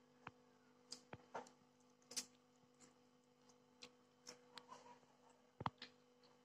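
Near silence: faint, scattered mouth clicks and smacks of someone chewing a mouthful of food, over a faint steady hum.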